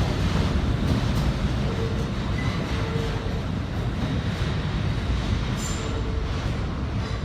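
New York City subway train running, a steady low rumble of wheels on track with a few faint clicks about a second in.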